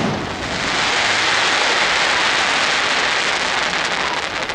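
Aerial firework shell's gold trailing stars crackling densely as they fall, a steady hiss-like rain of crackle that follows the burst and eases off near the end.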